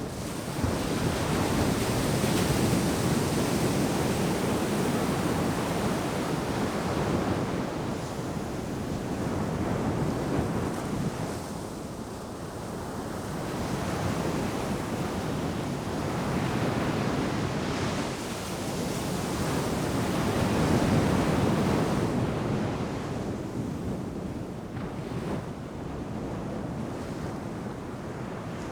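Ocean surf breaking and washing ashore: a continuous rushing noise that swells and ebbs with each wave. It is loudest when a wave breaks about a second in, and again about 21 seconds in.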